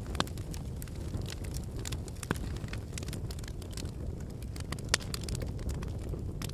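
Wood campfire burning: a steady low rumble of flames with irregular crackles and pops from the burning logs, one sharper pop about five seconds in.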